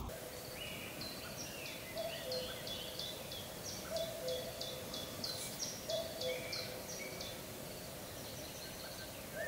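Spring birdsong: one bird gives a low two-note call, the second note lower, repeated about every two seconds, while another sings a quick run of high, short falling notes.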